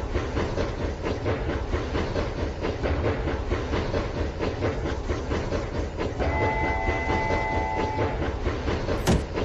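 Rail King battery-powered toy train running on its track: a steady motor hum and a dense rattle of wheels clicking over the track joints. About six seconds in, an electronic train-whistle sound effect plays for about two seconds as a steady chord. A sharp click comes near the end.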